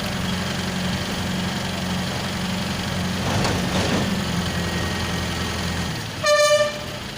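Truck engine running steadily, with a short horn blast about six seconds in, the loudest sound.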